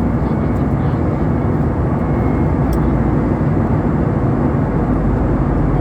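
Steady, loud rushing cabin noise inside an Airbus A320 airliner in flight: airflow and engine noise heard from a window seat.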